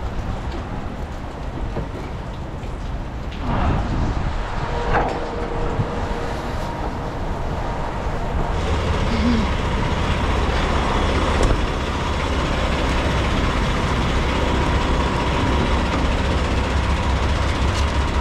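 Semi-truck diesel engine idling at a fuel island, with a few knocks a few seconds in. About halfway through a louder, steady hum with a faint held tone sets in, as the diesel flows into the other tank.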